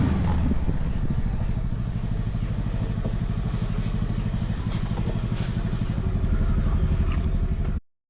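Scooter engine running steadily as it rides, with rapid even firing pulses, swelling slightly near the end before the sound cuts off abruptly.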